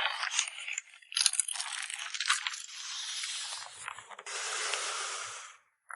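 Plastic photocard sleeves and packaging being handled: rustling and crinkling with scattered sharp clicks, then a steady hiss lasting about a second near the end.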